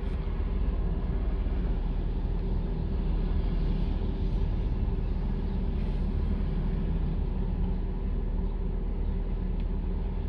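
Steady low hum inside a parked car's cabin: the engine idling with the air conditioning running.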